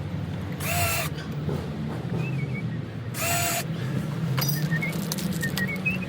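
Two short bursts of a cordless drill-driver, each about half a second long, one about a second in and one about three seconds in, while fixing a sash lock keep. Faint bird chirps can be heard in the background.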